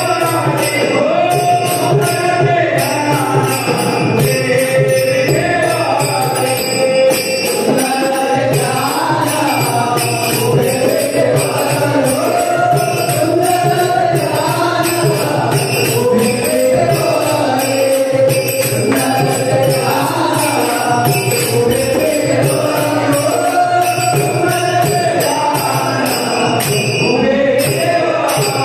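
Marathi devotional bhajan music: a sung melody over a steady, jingling metal percussion beat, like hand cymbals, played without a break.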